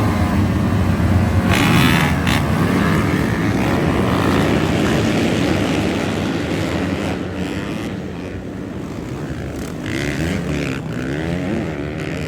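Several off-road dirt bike engines running and revving together, their pitch rising and falling in the second half.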